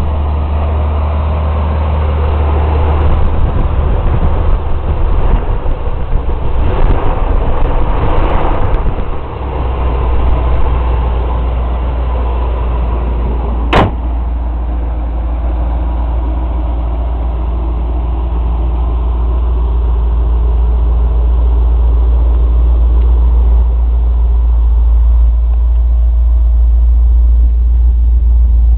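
1984 Chevy Scottsdale pickup's carbureted 305 (5.0-litre) V8 idling steadily, with louder uneven noise over it for the first third. A single sharp click about halfway through.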